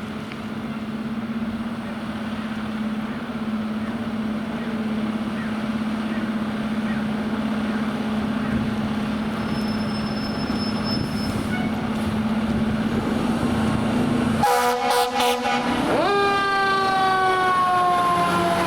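Fire engine approaching with a steady low drone that slowly grows louder. About fourteen and a half seconds in come a few short air horn blasts, then the siren climbs sharply and falls slowly.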